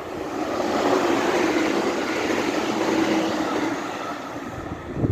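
A train passing at speed: a rush of wheel and air noise that swells about half a second in and fades over the last second, with a steady hum underneath. A sharp knock comes right at the end.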